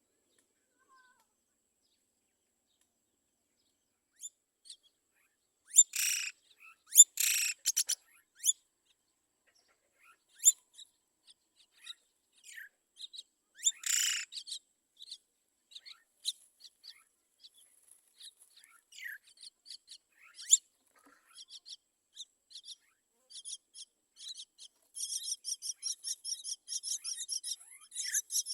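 Myna birds calling at the nest: starting about four seconds in, loud harsh squawks come in a cluster and again midway, with scattered short chirps between, then a fast run of repeated chirps near the end.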